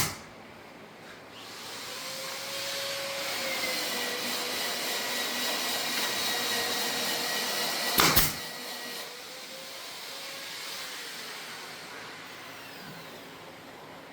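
A woodworking machine's motor running with a steady whine over a hiss. It opens with a loud knock and has another about eight seconds in, after which the whine eases off.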